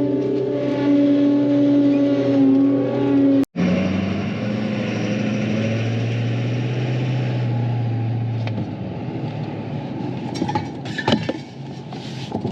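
A vehicle engine running steadily. About three and a half seconds in the sound cuts off abruptly and changes to a lower-pitched engine running, with rattles and knocks joining in over the last few seconds.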